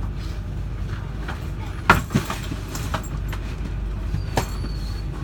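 A long freight train rolling past close by: a steady low rumble of the wagons, with sharp clacks of the wheels over the rail joints, the loudest about two seconds in.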